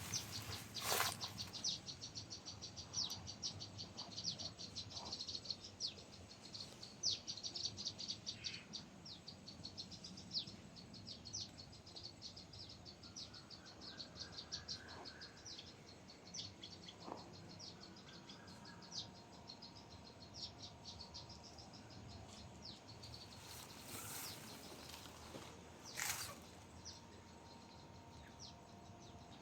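Evening insects chirping in fast trains of short high pulses, thinning out in the later part, with a few faint steady tones. A few soft rustling strokes come near the start and twice near the end.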